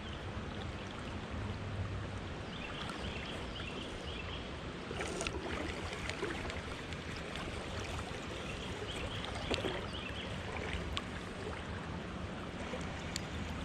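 Water lapping and washing around a kayak, a steady wash with a few light knocks and splashes, the strongest about five seconds in and again near ten seconds.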